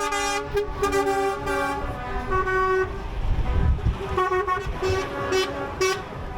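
Vehicle horns tooting in a string of short and longer blasts at a couple of different pitches, over the low rumble of engines going by.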